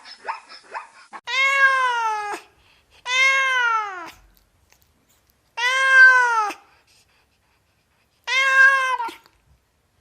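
A domestic cat meowing four times, each meow about a second long, rising slightly and then falling in pitch, with pauses between them. Before the first meow, about a second in, the last short yips of a dog die away.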